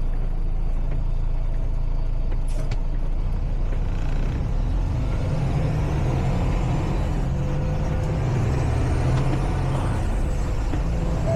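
Semi-truck's diesel engine running, heard from inside the cab, with its note climbing gradually in the second half. A single sharp click sounds about two and a half seconds in.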